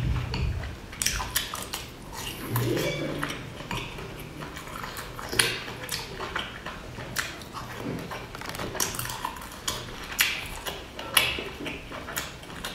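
Close-up eating sounds: chewing a boiled dumpling with wet mouth and lip noises, while chopsticks tap and scrape in a glass dipping bowl in scattered sharp clicks.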